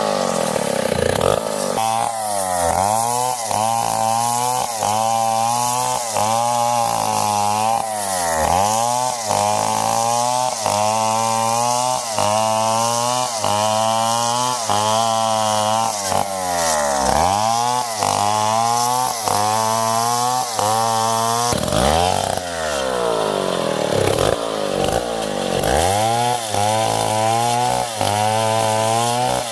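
Stihl 070, a large two-stroke chainsaw, running under load while cutting wood. The engine's pitch swings up and down over and over as the saw bites into the log and eases off.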